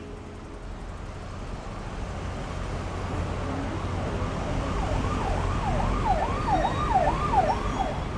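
Steady low traffic rumble. About five seconds in, an emergency-vehicle siren joins it in fast yelp mode, its pitch sweeping up and down about two or three times a second and growing louder.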